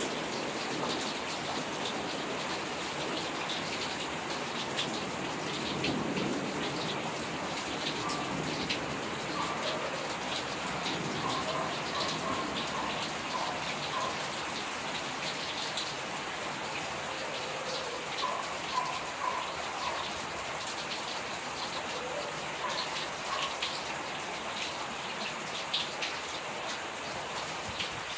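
Steady heavy rain from a summer rainstorm, with scattered sharp drips ticking close by.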